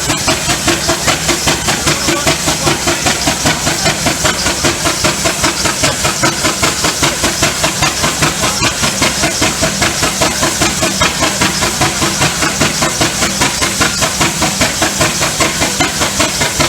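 1925 Allchin traction engine working hard under load on a dynamometer: a steady, rapid beat of steam exhaust, about four beats a second, over a continuous hiss of steam.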